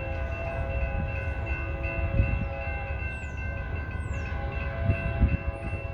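Freight train rumbling on the rails, with a couple of heavier thumps and a ringing of several steady tones that pulse on and off over it. A few bird chirps sound high above.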